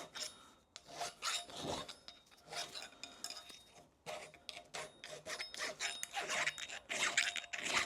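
Hand file rasping over the steel of a U-joint yoke in a run of uneven strokes, cleaning up burrs and marks left from hammering the old bearing caps out.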